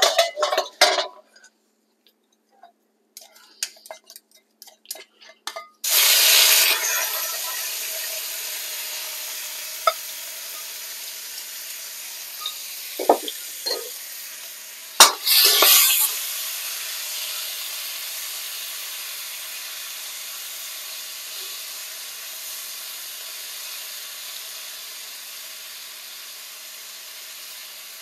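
Beef slices hitting hot oil in a wok about six seconds in: a sudden loud sizzle that settles into a steady frying sizzle and slowly fades. Metal ladle clinks against the wok at the start, and a few knocks with a fresh burst of sizzle come midway as the meat is moved.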